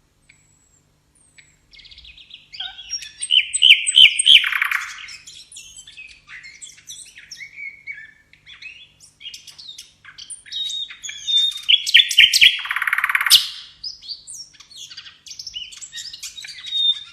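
Songbird singing in rapid, varied phrases of repeated high notes and trills, with short pauses between bursts.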